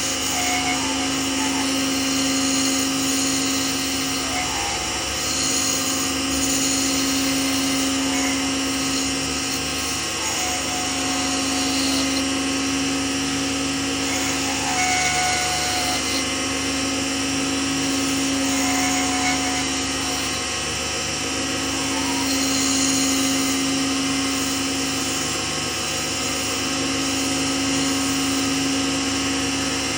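Lathe motor running steadily with a constant hum, its main tone dipping briefly about every five seconds.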